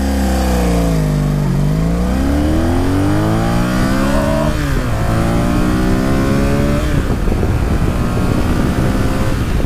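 1983 Honda Sabre VF750S's 750cc V4 engine on the move. The revs drop for about a second and a half, then climb. Two upshifts follow, at about five and seven seconds in, each with a drop in pitch before the engine pulls again.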